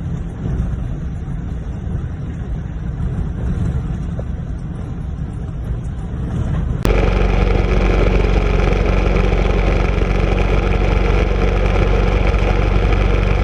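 Aircraft noise: a low rumble with wind on the microphone, then about seven seconds in an abrupt switch to a louder, steady engine drone with a hum of several steady tones.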